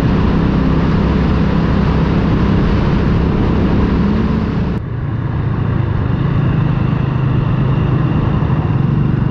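Motorcycle engine running at cruising speed with road and wind noise. About halfway through the sound changes abruptly, and the engine note then sits a little lower.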